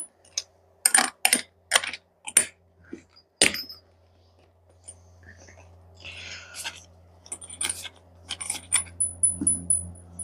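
Small metal hardware (bolts, nuts and washers) clinking and rattling as it is handled and set down: a series of sharp, ringing clinks in two clusters. A low steady hum comes in about a third of the way through.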